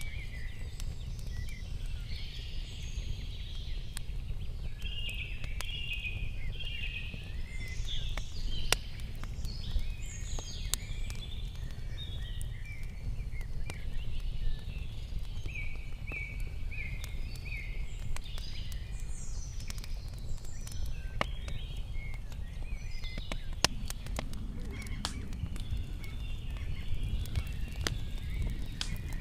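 Small songbirds chirping and singing on and off over a steady low rumble, with scattered faint clicks.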